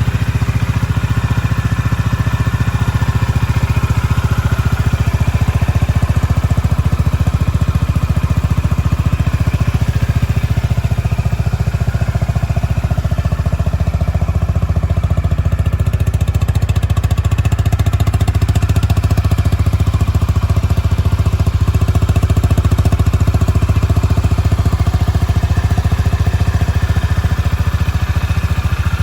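2021 Honda GB350's air-cooled single-cylinder engine idling steadily.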